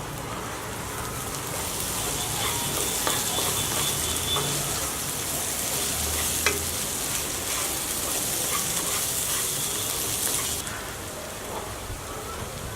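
Pepper chicken frying in a pan and being stirred: a steady sizzle with scattered clicks and scrapes of the spatula against the pan. The sizzle swells about a second and a half in and drops off sharply near the end.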